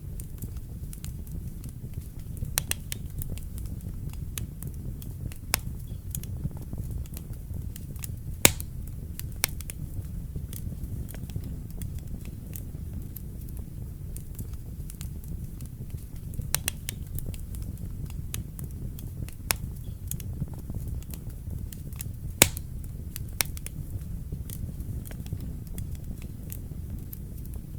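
Wood fire burning in a fireplace: a steady low rumble of flame with scattered sharp crackles and pops, two louder pops standing out.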